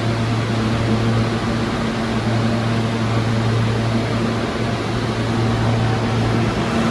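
Underground subway station ambience: a steady low hum over a constant rushing noise, with no sudden events.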